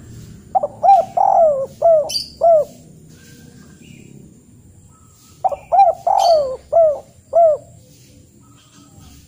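A bird calling: two phrases of about five short notes, each note rising and falling in pitch, the phrases several seconds apart.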